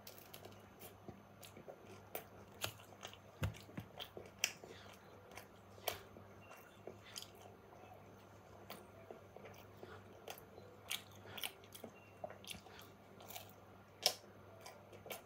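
A person biting into and chewing a slice of pepperoni pizza: faint, irregular mouth clicks and soft crunches.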